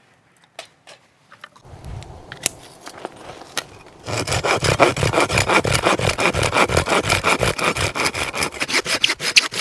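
Hand saw cutting wood with rapid back-and-forth strokes, starting about four seconds in after some rustling and a few clicks.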